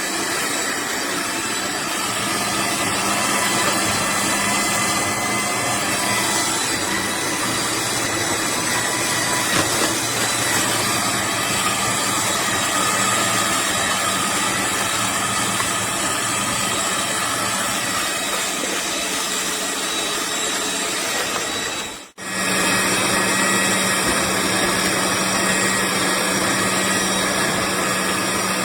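AMZCHEF electric cold-press juicer running, a steady motor hum and whine with several constant tones. It breaks off for a moment near the end, then carries on.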